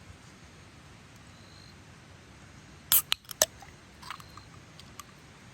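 Aluminium can of lemon squash chu-hi opened by its pull tab: a sharp crack with a brief hiss about three seconds in, then a few lighter clicks.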